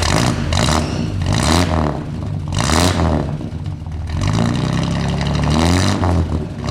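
A car engine revving up and falling back several times, with sharp crackling bursts in between.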